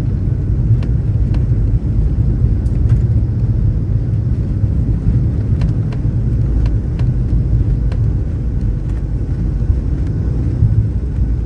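Steady low rumble of an airliner cabin during the descent and landing, with faint scattered ticks.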